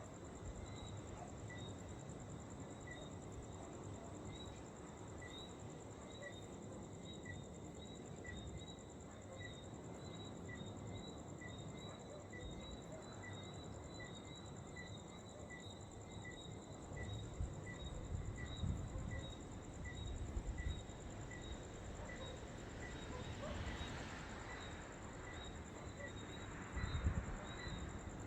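Insects chirping: a steady high-pitched drone with regular chirps, about one or two a second, over a low rumbling noise that swells in gusts in the second half.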